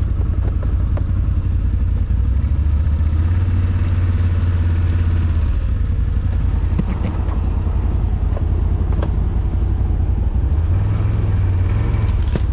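ATV engine running steadily as the quad is ridden, a loud low drone whose pitch shifts a few times, with scattered clatter.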